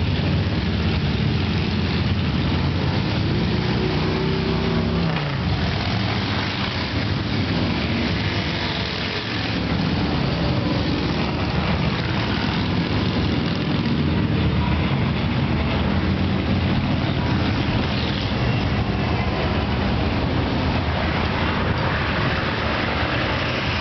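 A large group of motorcycles riding past in procession, their engines running steadily and loudly together; about five seconds in, one engine's pitch drops sharply as it goes by.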